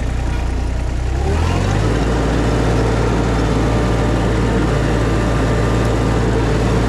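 Mini skid steer engine throttled up about a second and a half in, then running steadily at high revs.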